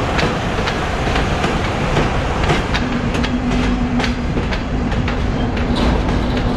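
Diesel shunting locomotive slowly hauling a string of open freight wagons, the wheels clicking over rail joints about twice a second. A steady low drone joins about three seconds in.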